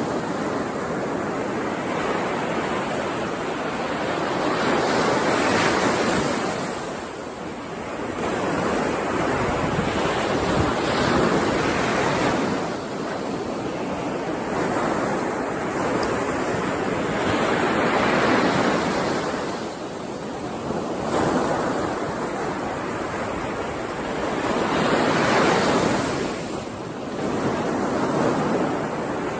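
Ocean waves breaking and washing on a shore, swelling and ebbing every few seconds, with no music or voice.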